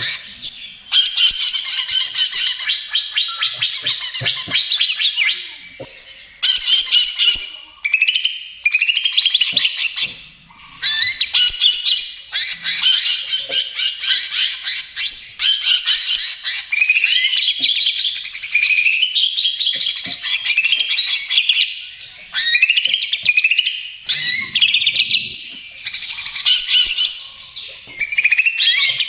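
Cucak ijo (green leafbird) singing loudly and almost without a break: fast, varied phrases of rising and falling chirps and rapid buzzy trills, with brief pauses between phrases.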